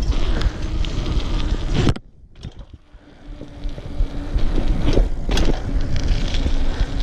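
Bicycle riding noise: wind rushing over the microphone and the rattle of the bike rolling over pavement. It drops away suddenly just before two seconds in, then builds back up, with a couple of sharp knocks around five seconds.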